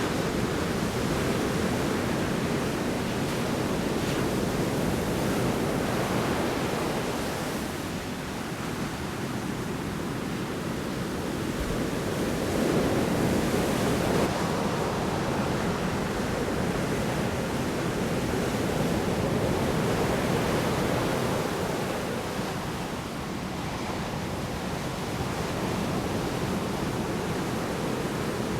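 Large storm waves breaking on the shore: a steady wash of surf that swells and eases slowly in loudness.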